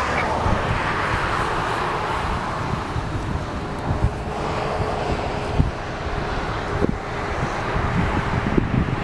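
Highway traffic going by, a steady rush that swells and eases, with wind buffeting the microphone in low thumps.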